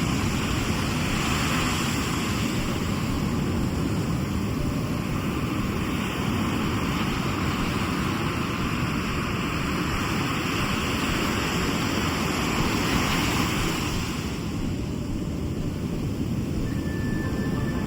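Sea surf washing steadily onto the shore, with a deep rumble from wind on the microphone. The hiss of the breaking water eases about fourteen seconds in.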